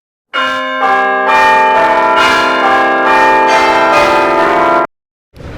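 Bell-like chiming tones, with notes entering one after another and ringing on together in a sustained chord. It starts and stops abruptly, as an edited-in transition sound.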